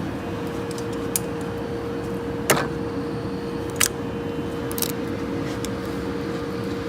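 Folding-box adhesive tape applying machine running with a steady hum, with four sharp mechanical clicks spaced about a second apart.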